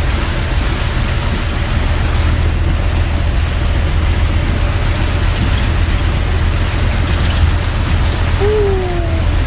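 A truck driving through floodwater: a steady rush of water noise over a continuous low engine rumble.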